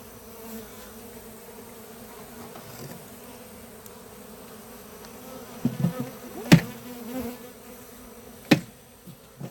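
Honeybees buzzing steadily around an open hive box. Near the end come a few low thumps and two sharp knocks about two seconds apart, the first one the loudest sound.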